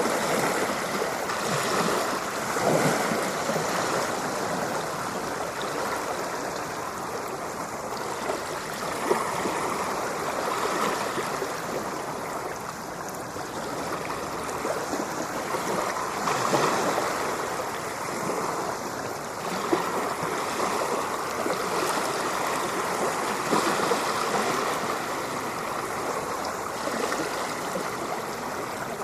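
Ocean surf: a continuous rush of water that swells and eases every several seconds as waves wash in.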